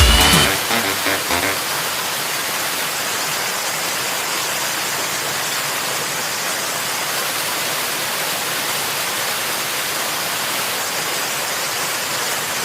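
Background music fades out in the first second or so, leaving a steady, even rush of running water.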